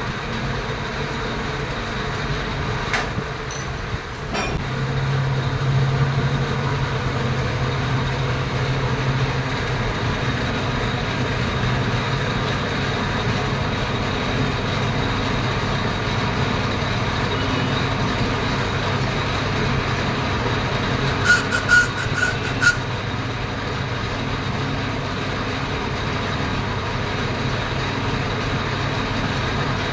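Metal lathe running steadily with a low machine hum. There are a couple of sharp clicks a few seconds in, and a quick run of metallic ticks about two-thirds through.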